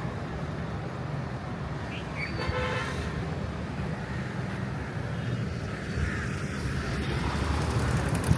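Busy street traffic with vehicle engines running steadily, and a short car horn toot about two and a half seconds in.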